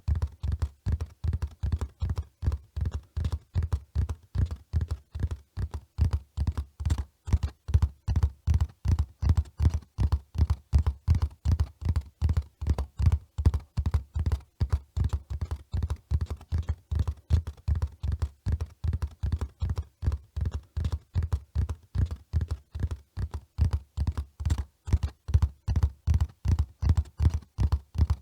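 Horse hoofbeats at a run: a steady, fast rhythm of low thuds that keeps going without a break.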